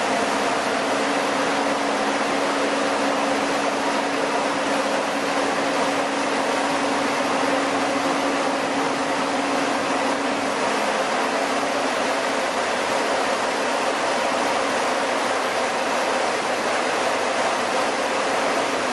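Chili powder milling machinery running: a steady, loud rushing noise with a low hum that weakens a little over halfway through.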